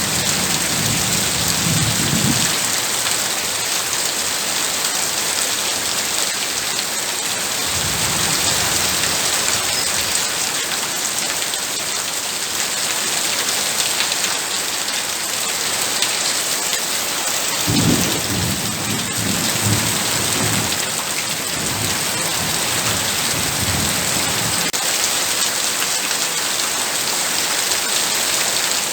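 Heavy rain falling with a steady hiss, with low rolls of thunder at the start, again around 8 seconds in, and a longer rumble from about 18 to 24 seconds in.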